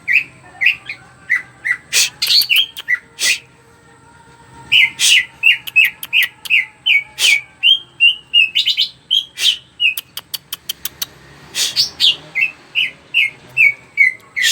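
Greater green leafbird (cucak ijo) singing in full, busy song: runs of short repeated whistled notes mixed with sharp clicks and chips, a brief pause about four seconds in, and a fast rattle of ticks about ten seconds in.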